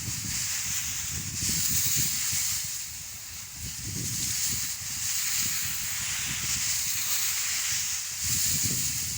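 Steady hiss of liquid spraying from a tractor-mounted crop sprayer's nozzles, swelling and easing every few seconds, over an uneven low rumble.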